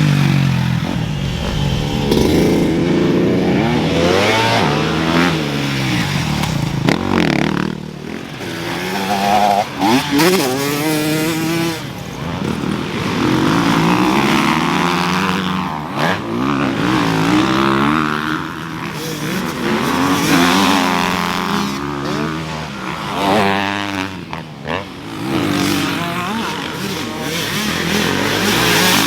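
Motocross dirt-bike engines revving on the track, the pitch climbing and dropping off again and again as the bikes go through the gears.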